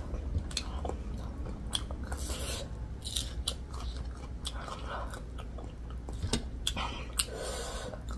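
A person chewing a spicy chicken drumstick, with many short sharp mouth clicks.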